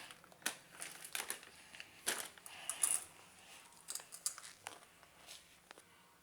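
Light, irregular crinkling and rustling with scattered crackly clicks, like a wrapper or thin plastic being handled close by, busiest a couple of seconds in and thinning out towards the end.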